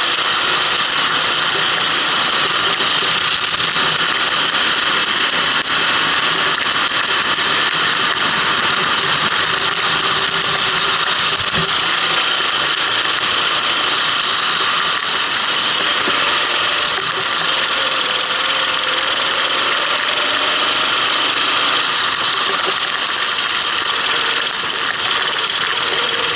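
Racing kart's engine running at speed, picked up by an onboard action camera under a steady loud rushing hiss; the engine note rises slowly a couple of times.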